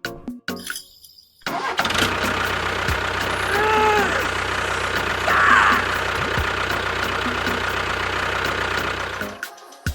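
An engine starts and runs steadily at idle for about eight seconds, then cuts off suddenly. A short rising-and-falling tone sounds over it about four seconds in, and a brief squeal follows a little later.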